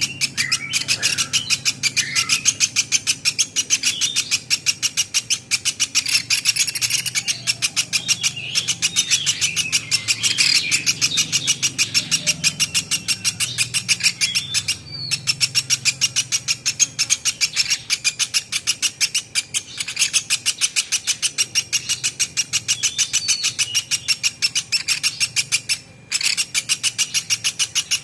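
Platuk beras bird calling in a fast, unbroken string of sharp, high repeated notes, several a second, with short breaks about halfway through and near the end.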